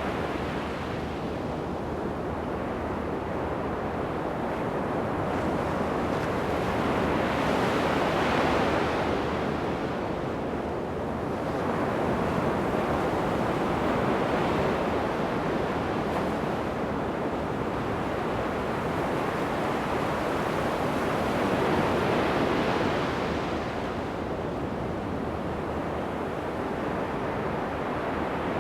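Ocean surf breaking and washing up a sandy beach, a steady rush that swells with each wave, three surges in about half a minute.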